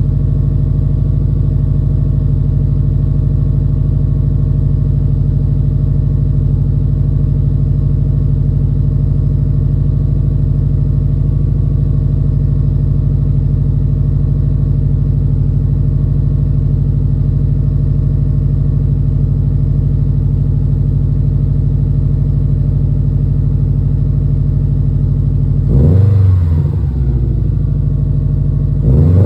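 2020 Subaru STI's turbocharged flat-four running through a CP-E Austenite muffled axle-back exhaust: a steady idle, then one quick rev that rises and falls near the end, with another rev starting just as it ends.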